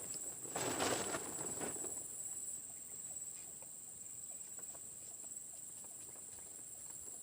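A burst of rustling about a second in, then scattered faint ticks and taps, over a steady high-pitched drone of night insects.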